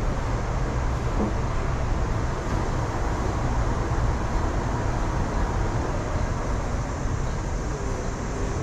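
Steady low rumble and hiss inside a carriage of an MTR East Rail Line R-Train electric multiple unit.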